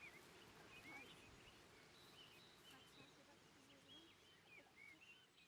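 Faint birdsong: short whistled chirps and warbling notes, one after another, over a low background hiss.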